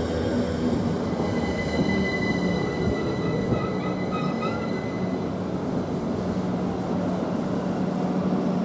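Great Northern Class 387 electric multiple unit standing at the platform, its electrical equipment giving a steady hum, with a thin high tone for a few seconds in the middle.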